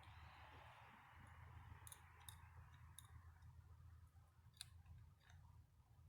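Faint, sparse clicks of small parts and tools being handled as an old distributor is taken apart, over a low steady hum.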